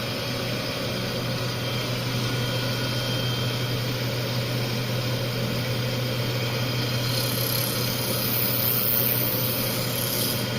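Small CNC cylindrical grinder running steadily: a constant low motor hum, with a thin hiss that grows brighter near the end.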